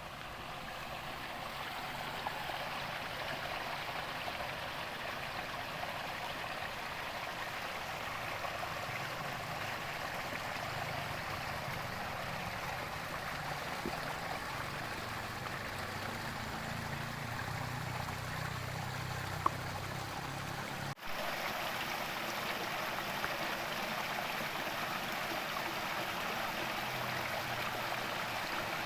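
Heavy rain falling with water running off, a steady even rush of water. It breaks off for an instant about two-thirds of the way in and resumes a little brighter.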